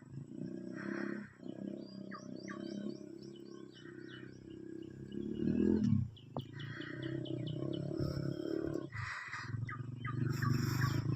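An engine running at low revs, rising briefly about five to six seconds in and then dropping back, with birds chirping.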